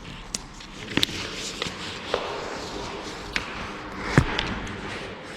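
A handful of scattered sharp knocks and taps, the loudest about four seconds in.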